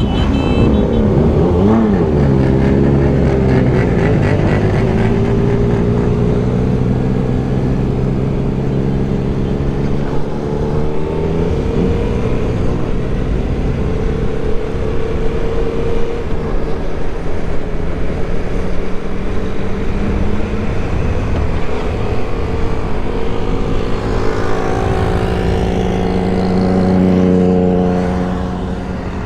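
Several motorcycle engines running together, their pitches overlapping and shifting. One revs up toward the end.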